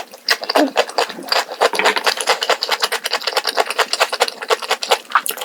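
Close-miked chewing of crunchy food: a dense, rapid run of crisp crunching clicks.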